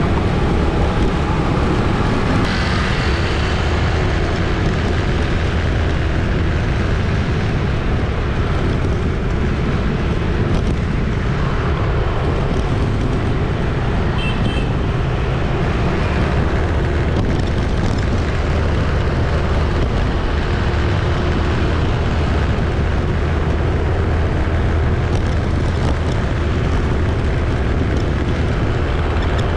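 Steady city street traffic: a continuous wash of engine and tyre noise, with a brief high-pitched tone about fourteen seconds in.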